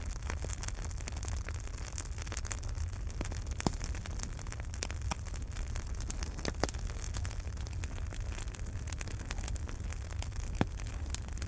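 Wood fire in a fireplace crackling, with a steady low rumble under many small crackles. Three sharper pops come about three and a half seconds in, midway through and near the end.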